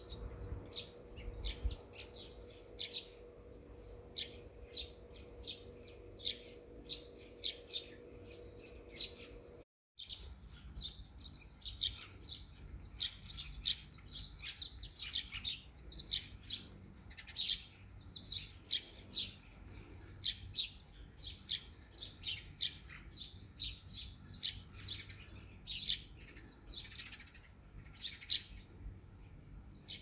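Small birds chirping busily, several short high chirps a second, many of them dropping in pitch. The sound cuts out for a moment about ten seconds in, and the chirping is denser after the break.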